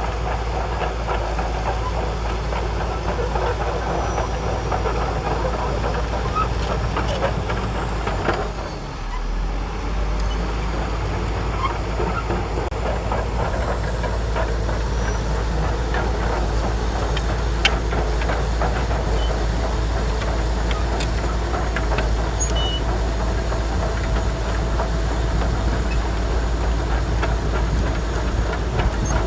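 Shantui DH17C2 crawler bulldozer working: a steady diesel rumble with the clatter and rattle of its steel tracks, dipping briefly about nine seconds in.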